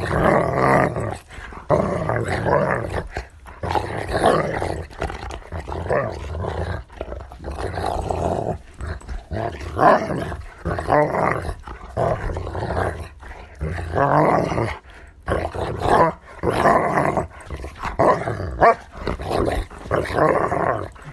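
A large dog barking and growling in a continuous run of barks with only brief gaps.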